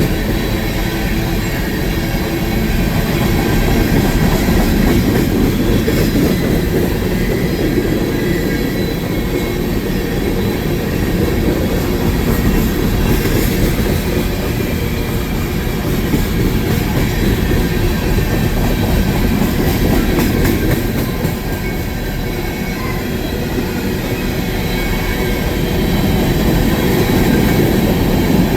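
Train cars rolling past on the track: a continuous loud rumble of steel wheels on rails, with faint high wheel squeal.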